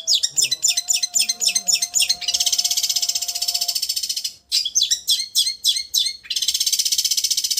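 Long-tailed shrike (cendet) singing: a run of sharp, quick chirps that turns into a long, fast, buzzing trill (the 'getar'), then a brief pause, more chirps, and a second long trill near the end.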